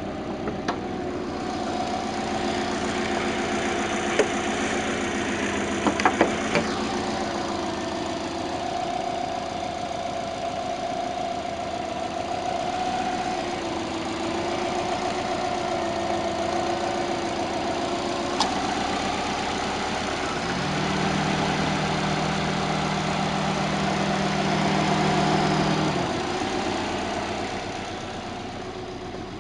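Subaru Legacy B4 RSK's 2.0-litre twin-turbo flat-four engine idling steadily, with a few short clicks. A second, lower hum joins for about five seconds past the midpoint.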